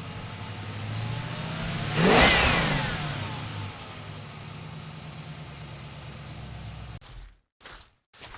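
Engine running steadily, with a loud swell about two seconds in as its pitch sweeps. Near the end the sound switches abruptly to short pulses with silent gaps, about two a second.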